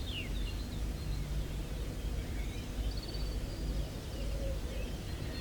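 Wind noise on the microphone, with a few faint small-bird calls: short chirps at the start and a brief high trill about three seconds in.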